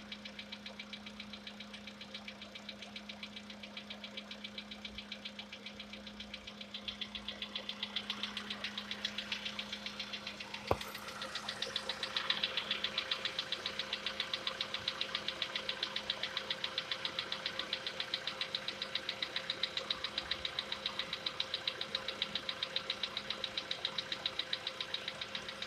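Volkswagen Polo Sedan's CFNA 1.6 petrol engine running with a rapid, even knock: the long-known CFNA engine knock that decarbonizing is meant to cure. The knocking gets louder about seven seconds in, with a single sharp click near the middle.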